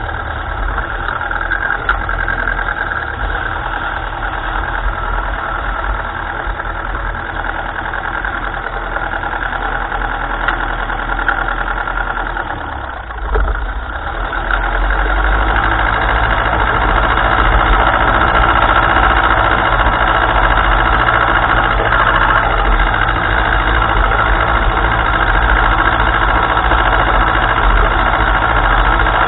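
1955 Ferguson tractor engine running steadily. It dips briefly about halfway through, then runs louder and stronger for the rest.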